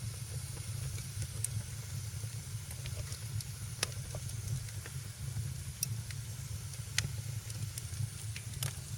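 Wood fire in a fireplace crackling: irregular sharp pops and snaps, a few each few seconds, over a steady low rumble and soft hiss.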